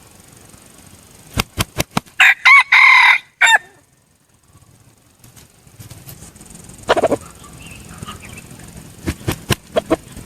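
A junglefowl rooster crowing once loudly, a short clipped crow of about a second and a half starting about two seconds in, after a few sharp clicks. A shorter single call follows about seven seconds in, and a few more clicks come near the end.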